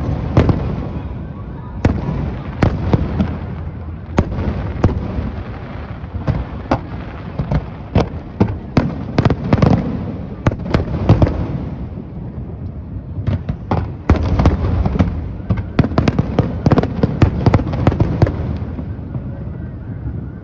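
Fireworks display: aerial shells bursting in an irregular barrage of sharp bangs over continuous rumbling and crackling, easing off briefly around the middle before picking up again.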